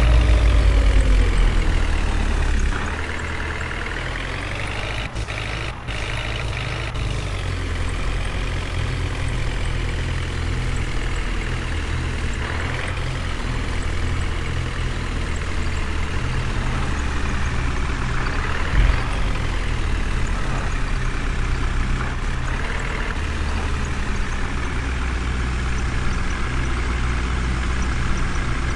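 A heavy vehicle engine running steadily, louder for the first couple of seconds, its pitch rising and falling a few times as it revs.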